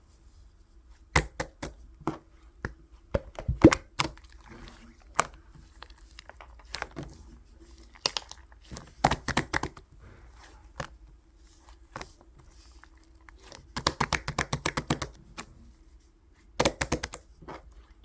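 Slime being squeezed and pressed by hand, giving bursts of rapid sticky clicks and pops every few seconds.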